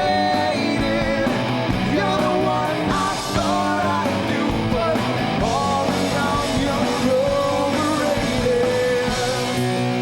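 A rock band playing live: a lead singer over electric guitars.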